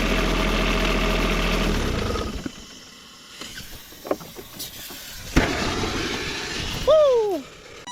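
Small diesel engine of a diesel-swapped Power Wheels running with a steady low drone, then shutting off about two seconds in and winding down; the engine is leaking coolant and overheating. Afterwards a few clicks, a hiss and a short falling whine near the end.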